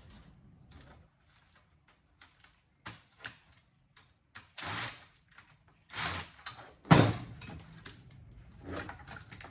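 A broken home theater unit being pried and pulled apart by hand: scattered clicks and knocks of its casing and parts, two brief scraping rattles, and one sharp loud knock about seven seconds in.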